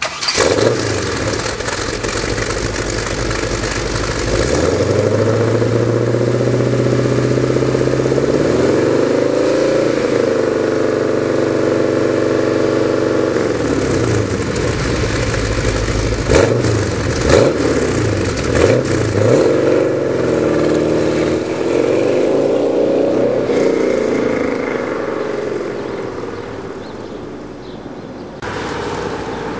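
1967 Corvette's 532-cubic-inch V8 running through an off-road exhaust with no mufflers, loud and deep, revved up and down several times. It gives a few quick sharp blips in the middle, then eases off and fades near the end.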